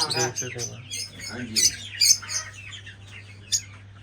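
Caged birds chirping, a few short, sharp, high calls spaced over a low steady hum.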